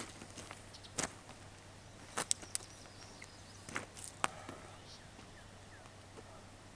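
A scattering of sharp clicks and knocks, several in quick succession in the middle, over a faint steady hum.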